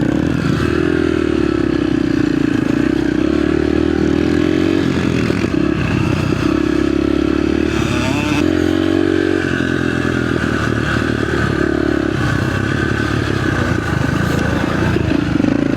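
Small off-road dirt bike engine running hard around a motocross track. The engine note holds, then backs off and picks up again a few times as the throttle is rolled off and on, with some clatter from the bike.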